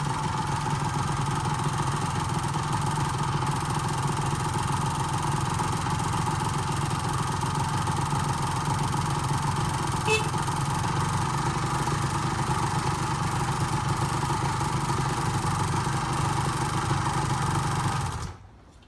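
Honda MVX250F two-stroke V3 motorcycle engine idling steadily. It cuts off abruptly near the end.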